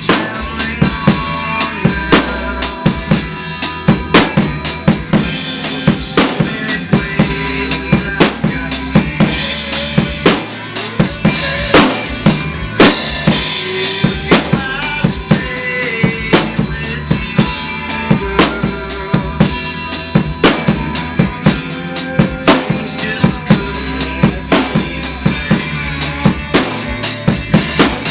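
Rock music with a drum kit playing a steady beat, with kick drum, snare and rimshot hits under melodic instrument lines.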